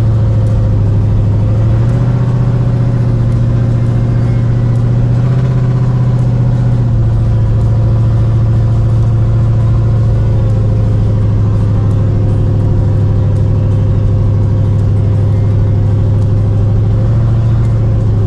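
Car engine running at a steady speed under way, a loud, even drone with a slight rise in engine note between about two and seven seconds in.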